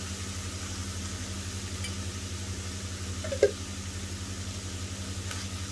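Minced chicken frying gently in oil in a pan, a soft sizzle over a steady low hum, with one brief knock about three and a half seconds in.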